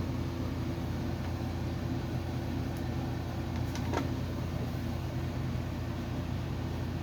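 Steady low machine hum from a running motor, like a shop fan or air conditioner, with a couple of faint light clicks of small parts being handled about three and four seconds in.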